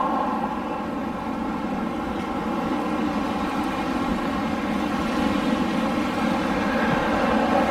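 Steady rushing wind, with a faint steady hum in it, growing a little louder near the end.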